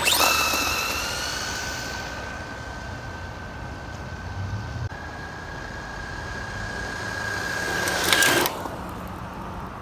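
Team Associated DR10 RC drag car's electric motor and drivetrain whining as it launches hard, the pitch rising briefly and then holding steady. The whine fades a little and then grows louder again, peaking with a loud rushing burst about eight seconds in before it drops away.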